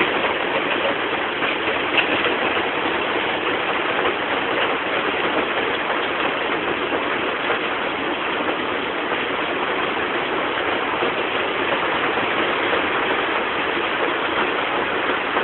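Heavy monsoon rain pouring down, mixed with surf breaking on the beach: a steady, even rush of noise.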